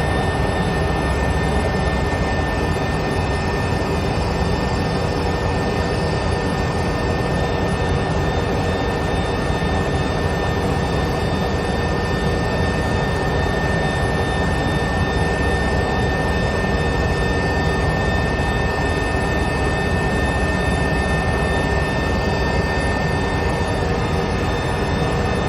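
Helicopter in flight: a steady engine and rotor noise with a high, unchanging whine running through it.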